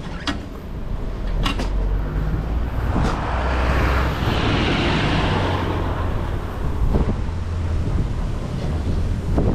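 Wind buffeting the microphone of a camera on a folding bike running downhill, a steady deep rumble with a hissing swell through the middle. Several sharp knocks and rattles come through as the bike rides over bumps.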